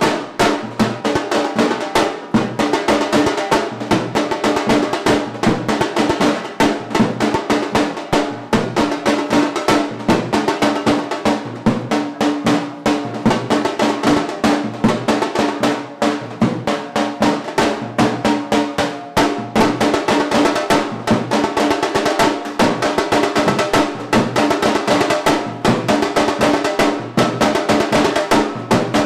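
Fast, dense drumming with rapid rolls, under a steady pitched melody line, as wedding music.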